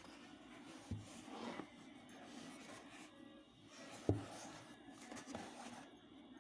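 Handling noise from packaging being handled during an unboxing: faint rustling with two short knocks, about a second in and about four seconds in, the second louder.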